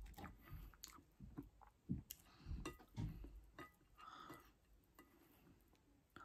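A person chewing a mouthful of kebab wrap: faint, irregular wet mouth clicks and smacks.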